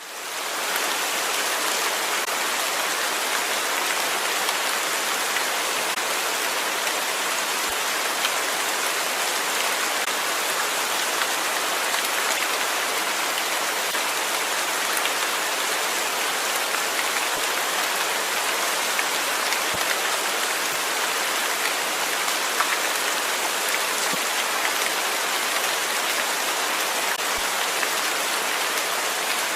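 Steady rain falling on a surface, an even hiss with scattered individual drops, fading in over the first second.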